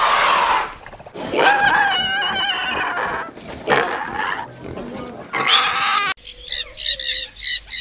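A pig squealing in several loud, wavering calls. About six seconds in it cuts suddenly to rapid high chirps repeating about three times a second.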